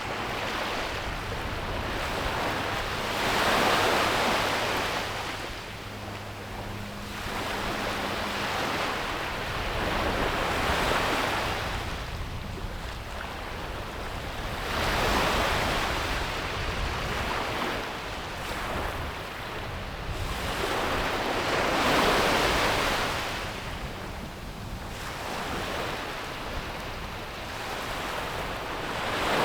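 Ocean surf breaking and washing onto a beach. The rush of the waves swells and fades in repeated surges every several seconds.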